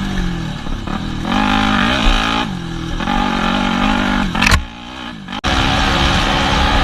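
Yamaha WR250F dirt bike's single-cylinder four-stroke engine revving up and down under throttle, its pitch rising and falling repeatedly. Past the middle the engine note drops away and the sound cuts off abruptly, giving way to a steady rushing noise.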